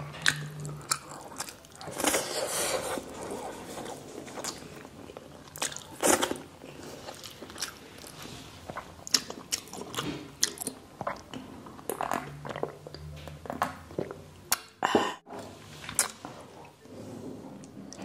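Close-miked eating: wet chewing and lip-smacking on soft, saucy braised pork and rice, with many short mouth clicks. The sound briefly cuts out about fifteen seconds in.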